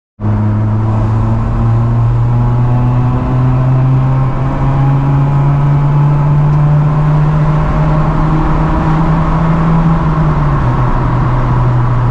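Honda Civic EP2's 1.6-litre four-cylinder engine through an aftermarket cat-back exhaust, driving under steady load with the engine note climbing slowly, then dropping back about ten and a half seconds in.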